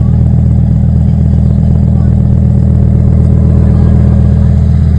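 Lamborghini supercar engine idling: a steady, low note with a fast, even pulse and no revving.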